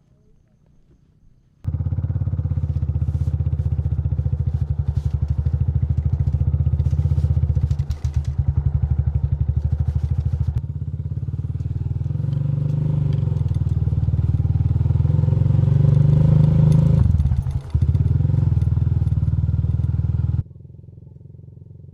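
Loud engine running steadily, starting abruptly a couple of seconds in, dipping briefly near the end, then cutting off to a much quieter low hum.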